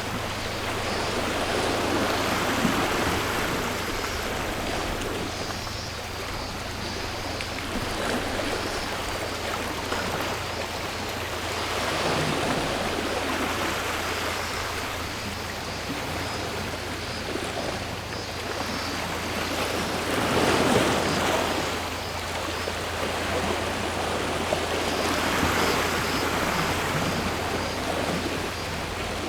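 Sea waves washing ashore, the surf swelling and falling back every few seconds. A faint steady cicada drone runs underneath.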